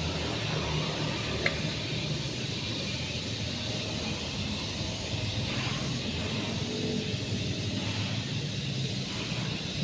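An engine running steadily with a low, even hum, and a single short click about a second and a half in.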